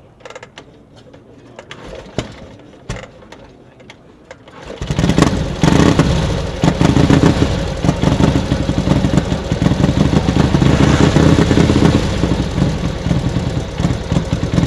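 1928 Harley-Davidson JD V-twin being kick-started: a few seconds of clicks and knocks from the kick-start mechanism, then about five seconds in the engine catches and runs loudly with a fast, pulsing beat.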